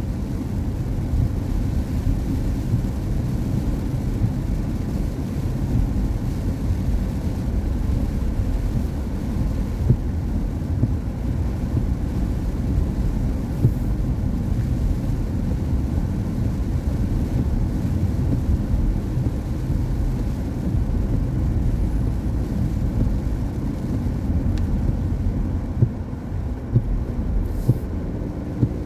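Car driving along a road: a steady low rumble of tyre and road noise, with a few brief knocks.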